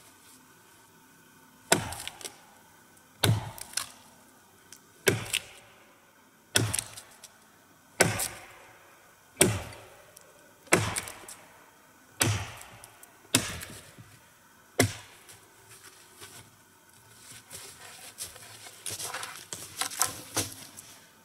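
Axe chopping into wood: about ten sharp strokes, evenly spaced about a second and a half apart, likely cutting short blocks to prop up a log. Near the end the strokes give way to softer knocking and rustling of wood being handled.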